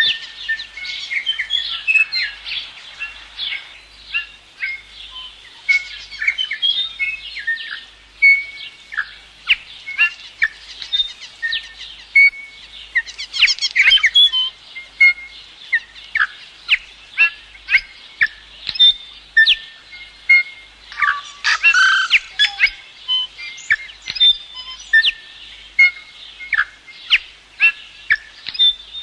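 Songbirds singing together, a dense mix of overlapping chirps and whistles, with two louder flurries of calls, one about halfway through and another two-thirds of the way in.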